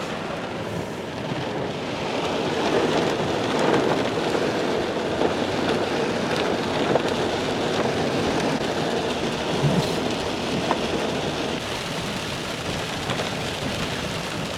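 Steady heavy rain falling on a car, heard from inside while driving, with the wash of tyres on the wet road.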